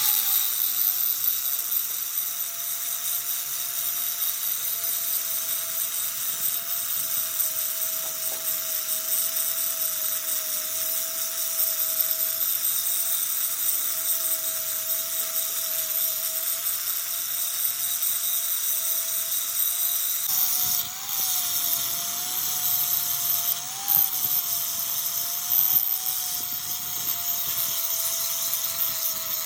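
A power tool running steadily with a held whine, which wavers and dips briefly a few times in the last third as the load on it changes.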